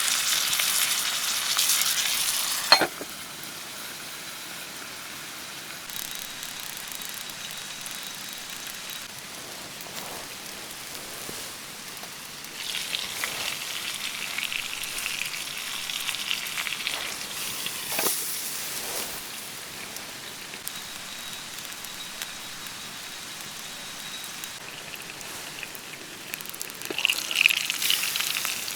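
Food sizzling and frying over a campfire, loud at first, then settling to a quieter sizzle that swells again midway and near the end. A few sharp pops come through now and then.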